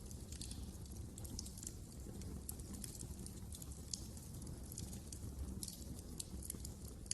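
Fire in a fireplace crackling: irregular small snaps and pops over a steady low rumble.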